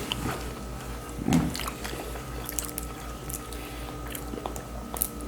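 Close-miked mukbang eating: a person chewing a mouthful of seafood boil, with small wet clicks and crackles. A short voiced "mm" comes about a second in, over a faint steady hum.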